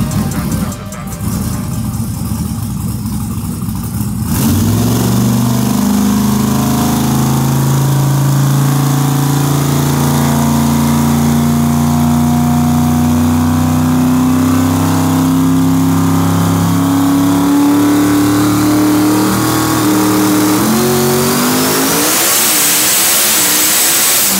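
Twin-turbo 438 cubic-inch billet LS small-block V8 of a Corvette C6 drag car pulling under load on a hub dyno. It gets loud about four seconds in and holds a slowly climbing pitch, then revs up sharply near the end as a high turbo whistle rises with it.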